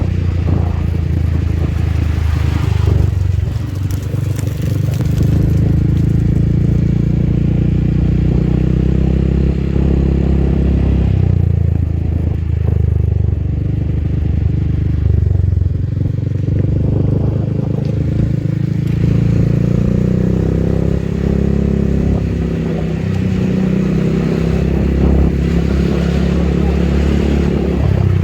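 Motorcycle engine running under way, its pitch rising and falling several times with throttle and gear changes.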